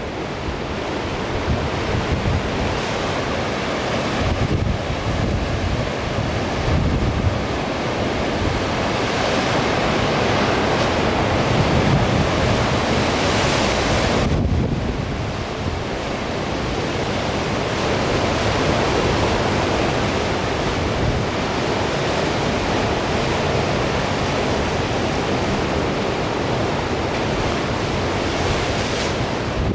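Heavy surf breaking and rushing in a strong wind, with gusts buffeting the microphone. The wash swells to a peak about halfway through, then drops off briefly before building again.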